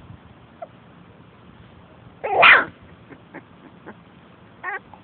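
A single loud sneeze about two seconds in, a short voiced catch followed by a sharp noisy burst.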